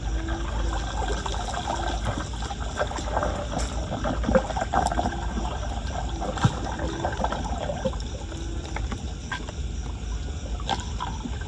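Floodwater trickling and splashing around a clogged street drain, with scattered small knocks and clicks.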